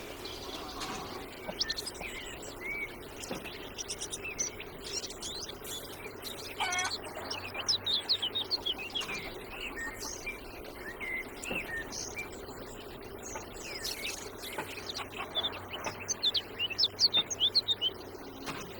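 Small birds chirping and twittering, many short quick calls one after another, over a steady faint hum.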